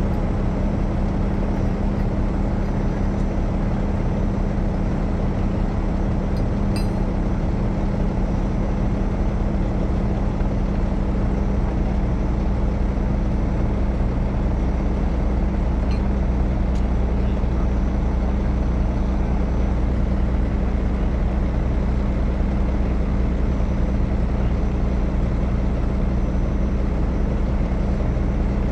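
Heavy rotator wrecker's diesel engine running steadily, with a few faint clicks about seven seconds in.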